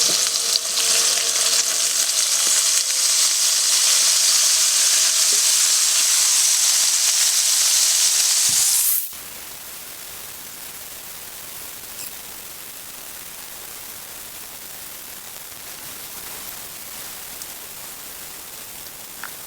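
Mangrove snapper fillets sizzling loudly in hot oil in a frying pan, with lemon juice just poured over them. The sizzle cuts off abruptly about nine seconds in, leaving only a faint steady hiss.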